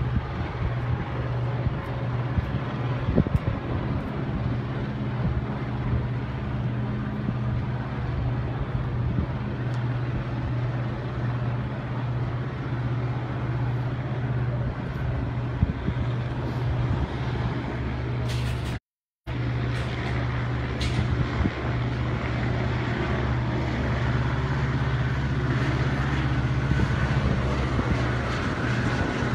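A steady engine drone with a constant low hum under an even wash of noise, unchanging except for a split-second dropout about two-thirds of the way through.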